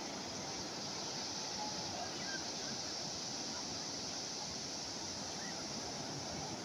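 Calm sea waves washing steadily, an even rushing hiss with no distinct breaks.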